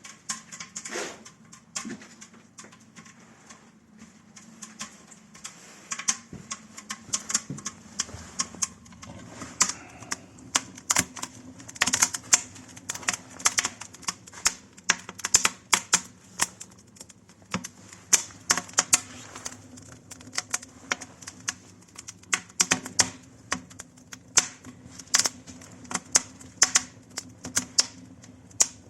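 Wood fire crackling in the firebox of a masonry stove-fireplace: irregular sharp snaps and pops, thicker in some stretches and sparser in others.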